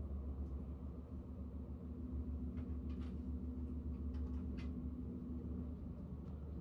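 KTX high-speed train running, heard from inside the passenger cabin: a steady low rumble with a steady hum that fades out near the end, and a few faint light clicks.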